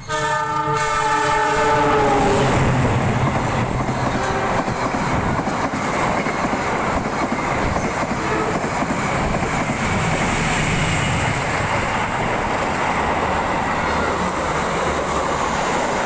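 A passing train sounds a multi-tone horn for about two seconds, its pitch sagging slightly as it goes by, then the loud steady rush and rattle of the train running past continues.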